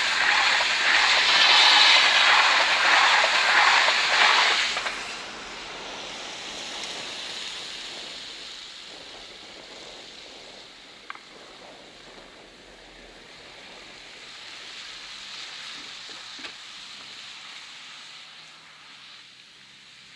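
PKP Intercity passenger train passing over a level crossing: loud rushing rumble of wheels on rails that cuts off about five seconds in as the last coach clears, then a faint steady hiss slowly fading as it moves away. A single sharp click about eleven seconds in.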